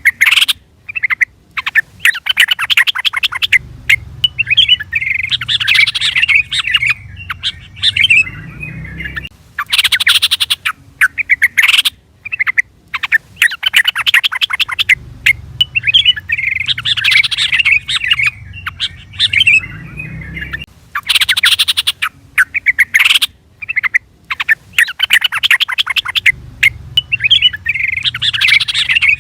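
Sooty-headed bulbul calls: loud runs of rapid chattering, chirping notes broken by short pauses, the same sequence repeating about every 11 seconds.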